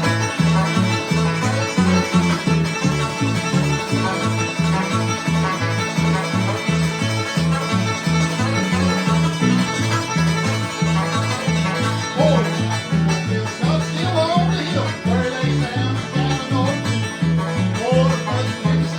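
Bluegrass instrumental played live: fast banjo picking over acoustic guitar keeping a steady alternating bass-note beat.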